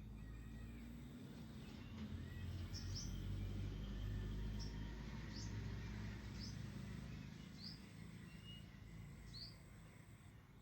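A bird chirping over and over, short rising chirps about once a second, over a low steady rumble of background noise.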